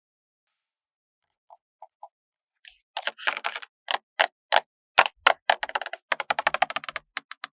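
Stickers and sticker paper handled close to the microphone: a few faint ticks, then from about three seconds in a close run of crisp crackles and clicks as stickers are peeled and pressed down.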